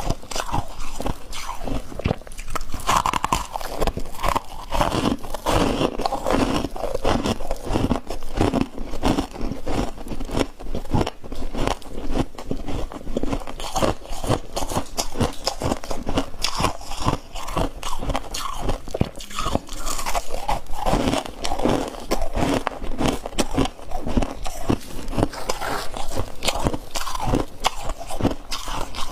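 A person biting and chewing crunchy chunks of ice, with dense crunching that keeps going without a break.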